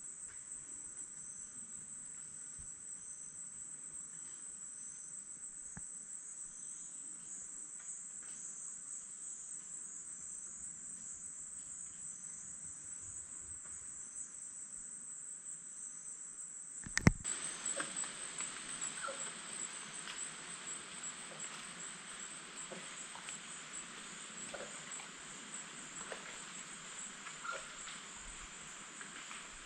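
Steady high-pitched chorus of rainforest insects. A little past halfway there is one sharp click, after which the background is fuller, with scattered small ticks over the insect chorus.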